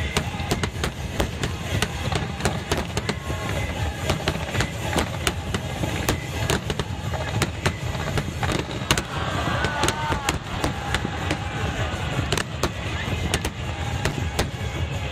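Aerial fireworks going off in a dense barrage: many sharp bangs and crackles in quick succession over a continuous low rumble.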